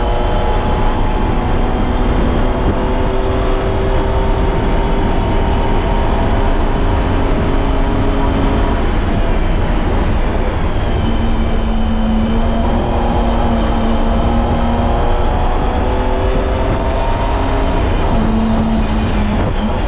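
BMW E30's M20B25 2.5-litre straight-six under load on a wet track, its revs sinking and climbing through the corners, with a short break in pitch near the end. Tyre and road noise runs steadily underneath.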